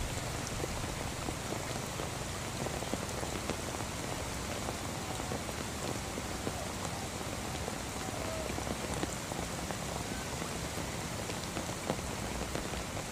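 Steady rain falling on a puddle and wet ground, an even hiss of many small drops.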